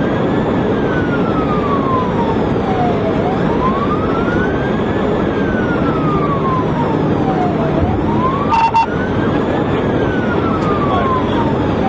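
Police siren on a slow wail, rising and falling about every four and a half seconds, over steady road and engine noise from a cruiser at pursuit speed. A brief blip sounds about eight and a half seconds in.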